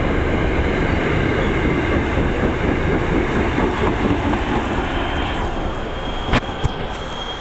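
MBTA commuter rail train running on the tracks, a steady rumble that slowly fades. A thin high whine comes in past the middle, and two sharp clicks sound near the end.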